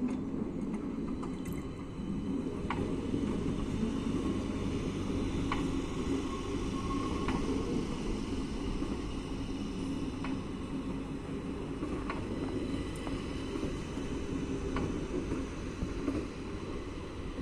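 Madrid Metro train running slowly with a steady low rumble, and a sharp click from the wheels every two seconds or so.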